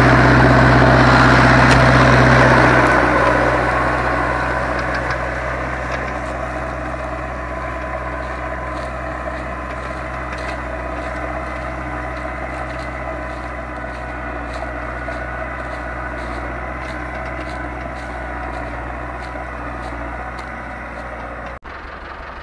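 Zetor 7245 four-cylinder diesel tractor engine running steadily while pulling a plough. It is loud for the first few seconds, then fades over several seconds and holds at a lower level.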